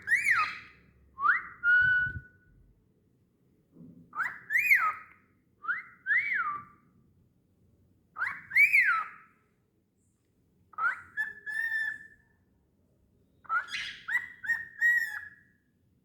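Cockatiel whistling: seven short phrases of quick up-and-down notes with pauses between them, several ending in a held, level note.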